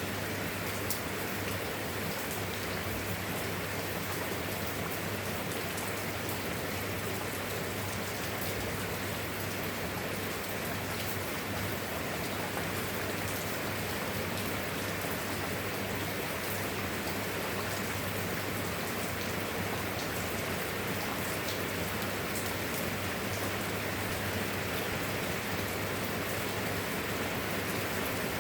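Steady rain falling, with a fine patter of individual drops over an even hiss.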